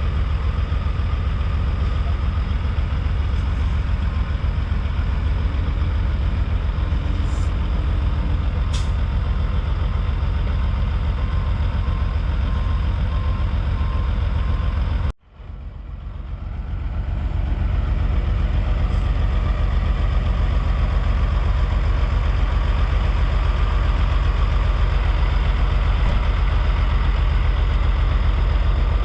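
Heavy diesel trucks idling, a steady deep rumble. About halfway through it breaks off abruptly and swells back in over a couple of seconds.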